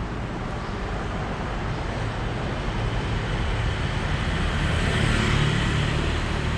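Steady vehicle rumble with a low hum, slowly growing louder and loudest about five seconds in.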